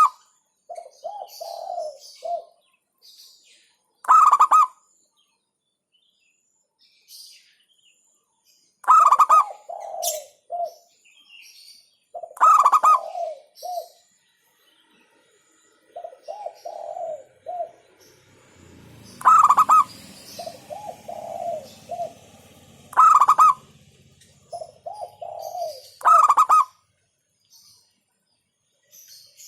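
Zebra dove (perkutut) cooing in repeated phrases, each a loud sharp opening note followed by a lower rolling trill, with a pause of a few seconds between phrases.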